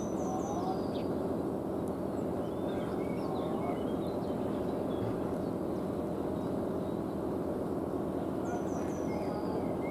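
Songbirds singing over a steady low background noise. One bird sings the same short, high, falling song phrase at the start and again near the end, with scattered chirps between.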